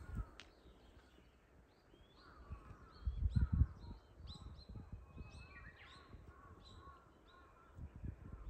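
Outdoor birdsong: a chorus of short, high chirps and repeated arched calls from several birds. About three seconds in, a brief low rumble is the loudest sound.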